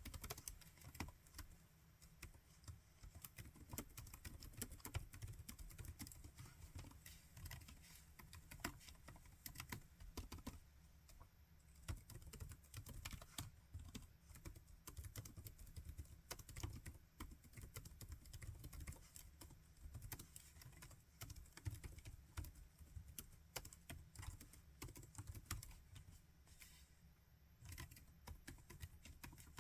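Laptop keyboard being typed on continuously, quiet irregular key clicks in quick runs with brief pauses between them.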